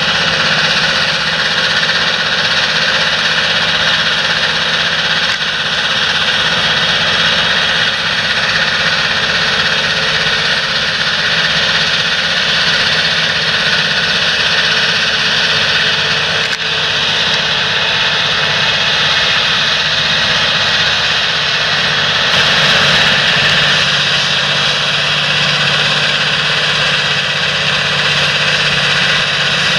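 Large John Deere tractor running steadily, its engine noise unbroken, with a steady high whine over it.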